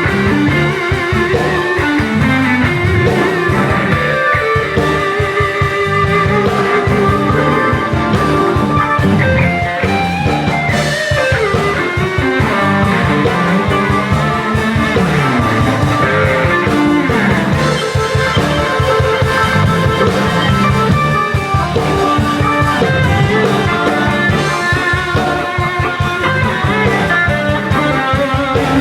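Live blues-rock band playing an instrumental passage: electric guitar over bass and drums, with a bending guitar note about ten seconds in.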